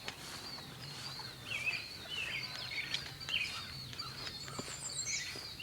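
Several birds chirping in short, scattered calls over a steady high-pitched insect trill.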